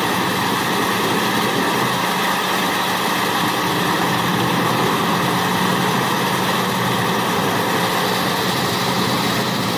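A heavy machine's engine running steadily at a constant pitch.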